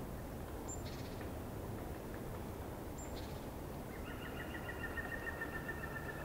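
Birds calling over a steady low background rumble: two short, sharp high notes that drop in pitch, about a second apart from the start and again about three seconds in, then a rapid trill starting about four seconds in and carrying on.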